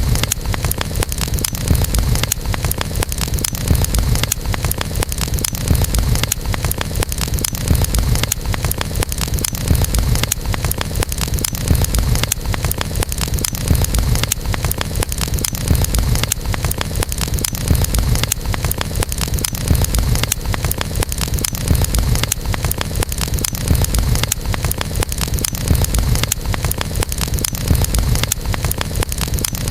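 Campfire burning, wood crackling with a dense, steady stream of small pops and snaps over a low rumble.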